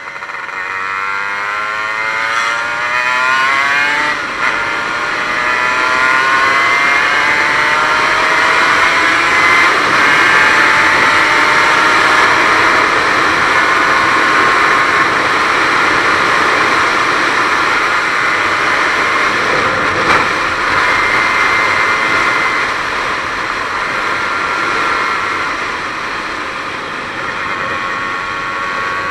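Aprilia RS 125 single-cylinder two-stroke engine under hard acceleration. Its pitch climbs steeply over the first few seconds, then it is held at high revs at a steady pitch for the rest of the run.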